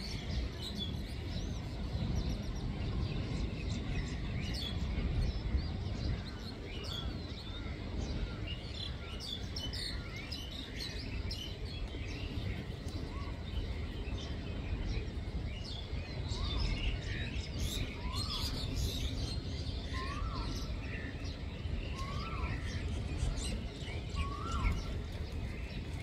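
Several birds chirping and calling, with a short rising-and-falling call repeated about every two seconds through the second half, over a steady low rumble.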